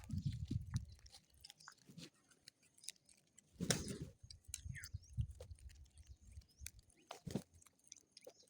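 Birds feeding on food scattered on a roof, with irregular pecking taps and scuffles. There are low thumps in the first second and two louder brief scuffles, one a little before halfway and one near the end.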